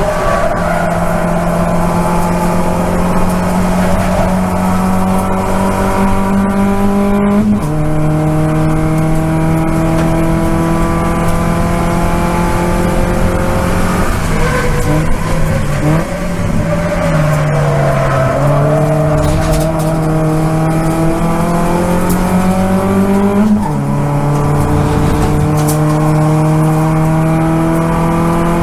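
Toyota Vios race car's engine heard from inside the cabin under hard acceleration. It revs up steadily and drops sharply at an upshift about seven seconds in. It falls away under braking and downshifts around the middle, then pulls up again to another upshift a few seconds before the end.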